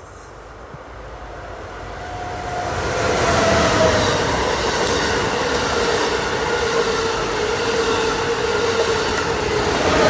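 An Amtrak Acela Express high-speed trainset passes at speed. The rush of wheels on rail and air builds from about two seconds in and stays loud to the end. A steady whine rides on top of it, and the noise peaks again as the rear power car goes by.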